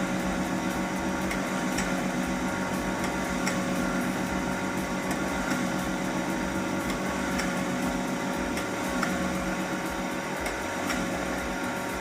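Domestic electric flour mill (aata chakki) running steadily with a motor hum while grinding grain on a test run, with faint ticks now and then.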